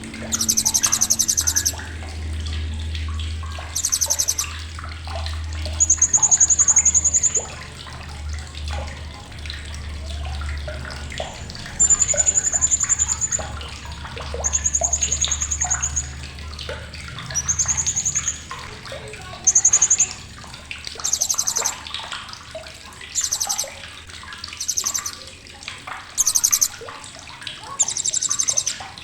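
Srindit (hanging parrot) giving sharp, very high, rapid chattering trills in short bursts, more than a dozen of them, with softer chirps in between. A low hum runs underneath for roughly the first half.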